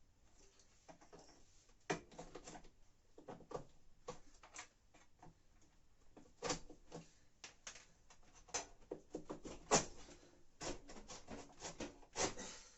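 A large screwdriver levering a washing machine's heating element out of the tub: irregular scraping and sharp metal clicks as the element is worked loose a little at a time.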